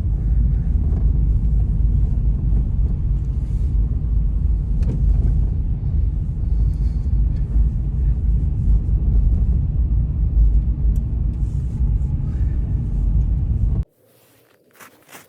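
Blizzard wind buffeting the microphone: a loud, steady low rumble that cuts off abruptly near the end, leaving a few faint clicks.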